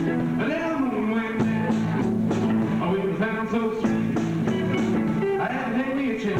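Rock band playing live: electric guitar over bass guitar and drums, with steady held bass notes and regular cymbal hits.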